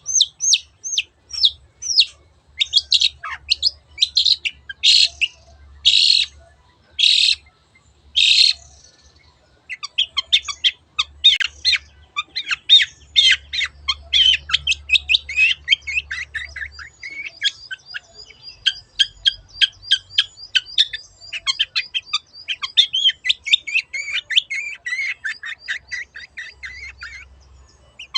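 Long-tailed shrike (cendet) singing: first a string of separate notes, including four loud harsh calls about a second apart, then from about ten seconds in a fast, continuous chattering run of short notes.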